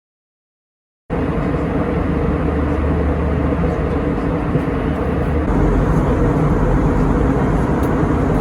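Steady cabin noise of an airliner in flight: a loud, even rush with a low drone. It cuts in suddenly about a second in, after silence.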